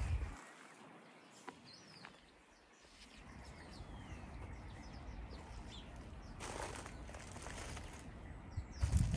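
Garden birds chirping now and then, with a brief rustle about six and a half seconds in. The loudest sounds are two short low rumbles on the microphone, one at the start and one just before the end.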